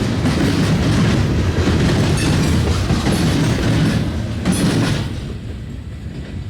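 Train cars rolling past on the rails with a steady loud rumble, the noise dropping sharply about five seconds in.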